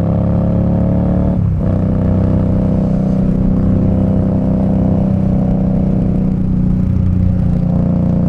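Indian Scout Bobber's V-twin engine running under way, its pitch dropping sharply about a second and a half in, then holding steady.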